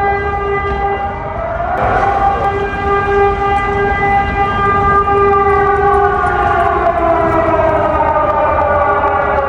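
Air-raid sirens wailing, several sounding at once at different pitches; about six seconds in, one slides slowly down in pitch.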